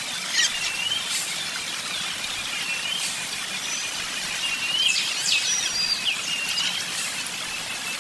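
Wild birds chirping: short, high whistled chirps and quick sliding calls every second or so, over a steady outdoor hiss, with a fast repeated high note running through the second half.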